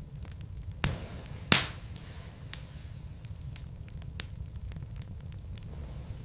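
Wood fire crackling in a fireplace: a steady low rumble of the flames with scattered small ticks, and two sharp pops about a second in, the second louder.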